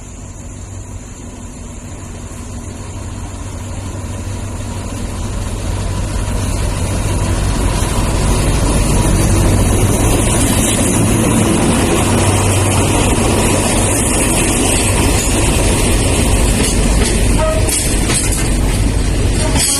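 SRT Alsthom diesel-electric locomotive approaching, its engine rumble growing steadily louder over the first several seconds, then running loud and steady past, with a few sharp clicks near the end.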